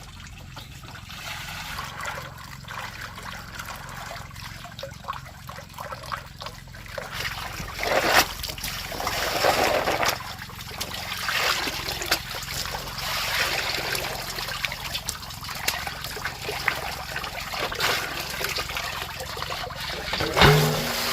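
Water trickling and splashing continuously, with louder splashes now and then, as if water is being poured or run and things are rinsed in it.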